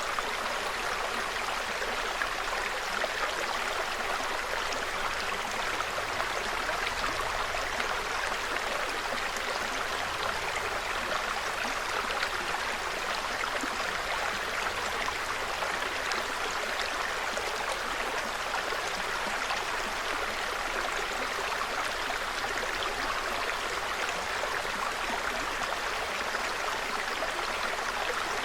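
Small forest stream babbling steadily, an even, unbroken rush of running water.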